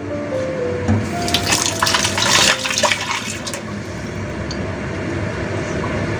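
Eggplant and minced meat sizzling and bubbling in a wok under a glass lid, with a louder spell of crackling and popping from about one to three and a half seconds in.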